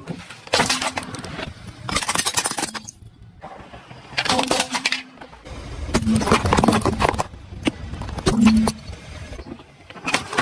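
Objects crunching and cracking as a car tyre rolls over and crushes them, in a series of about five separate crackling bursts with short pauses between.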